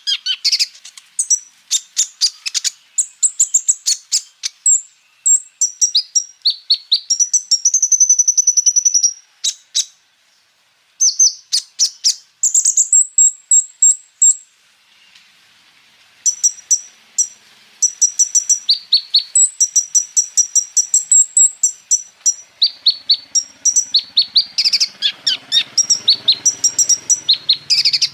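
Kolibri ninja sunbird singing: rapid bouts of sharp, high chirps and fast trills, with a short break about ten seconds in and another brief lull midway. The song mixes in borrowed phrases mimicked from other birds.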